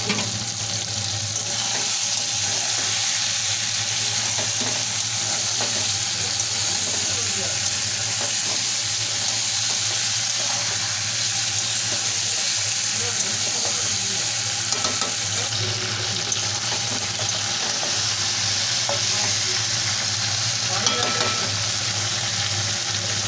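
Chicken curry with potatoes and peas frying in oil in a pan, a steady sizzle, stirred with a spatula that scrapes now and then; this is the kosha stage, the masala-coated meat being slow-fried before water goes in.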